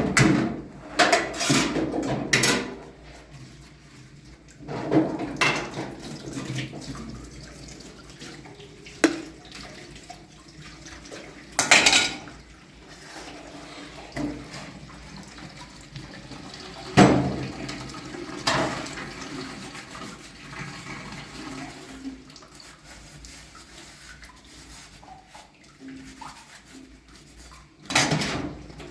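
Running or splashing water with irregular knocks and clatter of kitchenware, about a dozen sharp knocks spread through it, the loudest about 12 and 17 seconds in.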